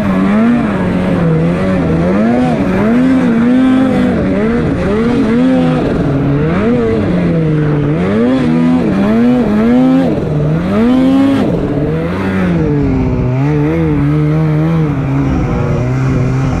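Snowmobile engine revving up and down repeatedly, its pitch rising and falling about once a second as the throttle is worked on and off.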